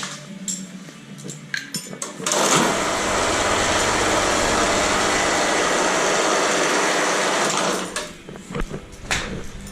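Power tool running steadily for about five seconds, with light metal clinks of hand tools before and after.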